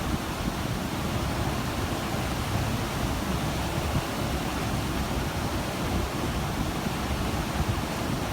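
Steady rushing of the open sea and wind, heard from a cruise ship's balcony, with an irregular low rumble underneath.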